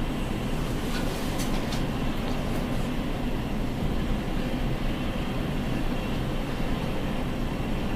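Steady low rumble of airliner jet engines idling on the ramp, mixed with wind buffeting the microphone.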